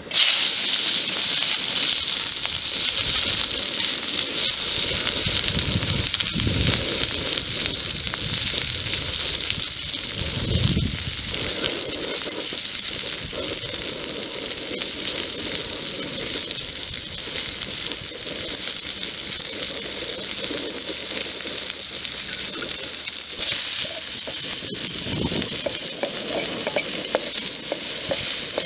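Sliced onions, tomatoes and chillies sizzling in a hot metal pan, the sizzle starting suddenly as they go in and then running steadily. A few dull knocks come from a wooden spatula stirring them.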